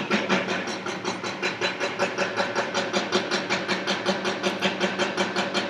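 Jackhammer pounding in rapid, even blows, about eight a second, over a steady low hum.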